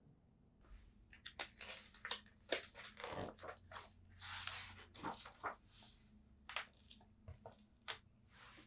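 Faint rustling and clicking of paper pages being handled, with irregular short scrapes and taps.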